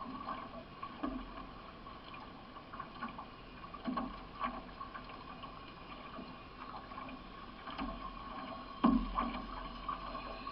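Paddling a C1 racing canoe: paddle strokes splashing and knocking, with water washing along the hull, and a sharper thump about nine seconds in.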